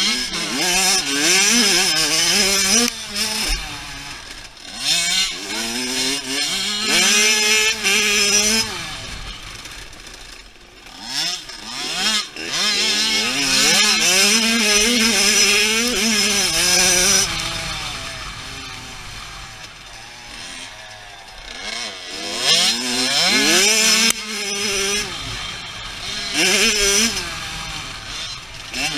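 Dirt bike engines revving hard, their pitch climbing and dropping with each run through the gears. The sound swells loud three times and fades between, as the bikes ride near and away.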